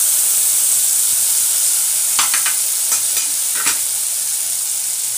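Ginger, green chilli and chilli powder sizzling loudly in hot oil in a wok, the sizzle set off by lemon juice poured in. A few short clicks come a couple of seconds in.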